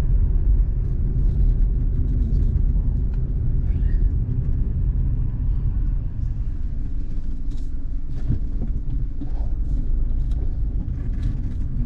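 Steady low road and engine rumble inside a moving car's cabin, with faint scattered ticks over it.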